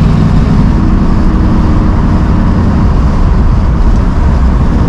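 1965 Ford Mustang Fastback's engine and exhaust running steadily while the car is under way, a low rumble heard from inside the cabin.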